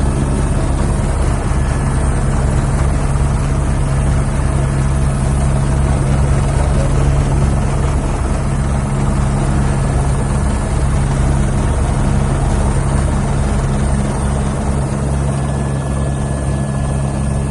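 Police helicopter running steadily overhead, a fast low rotor beat under a constant engine drone.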